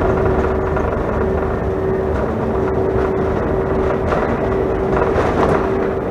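Steady cabin noise inside a Delta CRJ900 regional jet: the drone of its rear-mounted GE CF34 turbofans and the rush of air, with a steady hum-like tone running through it.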